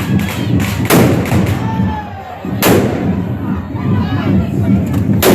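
Three very loud, sharp firework bangs, one about a second in, one near the middle and one at the end, each echoing briefly, over the noise of a street crowd.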